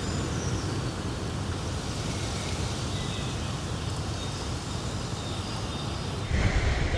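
Steady outdoor background noise, an even hiss weighted toward the low end. A little over six seconds in, it changes suddenly to louder ambience.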